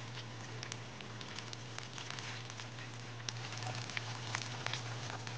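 Oysters and scallions frying in hot oil in a nonstick pan: a steady sizzle with many scattered pops and crackles as the oyster meat releases water into the oil. A steady low hum runs underneath.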